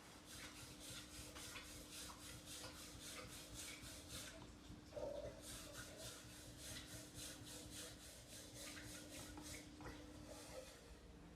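Hand sanding or rubbing on a lighter part: quick, even abrasive strokes, about three a second, with a short break about four seconds in and a brief knock just after it. A faint steady hum runs underneath.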